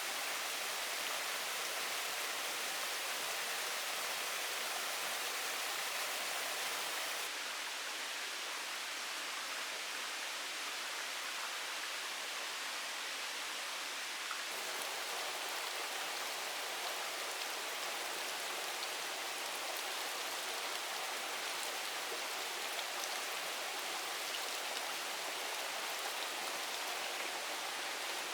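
Steady hiss of rushing water in the forest, with no distinct strokes. It shifts abruptly in tone twice, about 7 and 14 seconds in.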